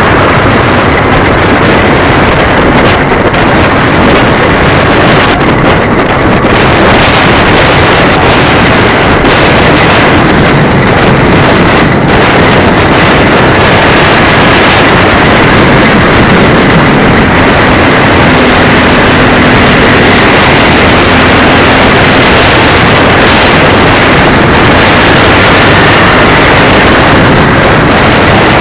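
Steady rushing wind noise on the microphone of a moving bike, with a vehicle's engine drone mixed underneath.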